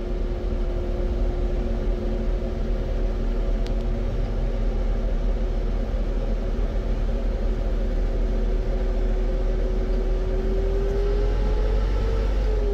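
Motor vehicle running steadily with a heavy low rumble and a steady hum that rises in pitch near the end.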